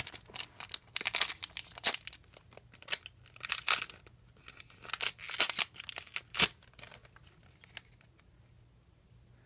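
Foil booster pack wrapper being torn open and crinkled: a run of irregular rips and crackles that stops about two-thirds of the way through.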